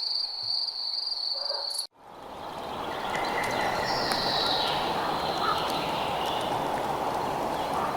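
A cricket's steady, high, slightly pulsing trill that cuts off abruptly about two seconds in. A new outdoor ambience then fades in over about a second, a steady rushing hiss with a faint bird call and scattered small clicks.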